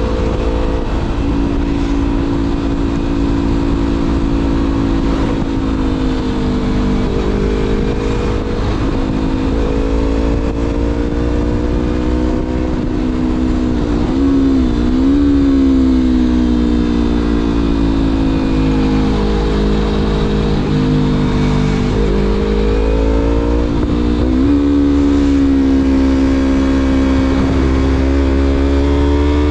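A 2016 Yamaha MT-25's parallel-twin engine, breathing through an aftermarket Shadux Viper Pro Race exhaust, running under way. Its pitch rises and falls with the throttle and dips and climbs sharply twice, about halfway through and again about three-quarters through, as the gears change.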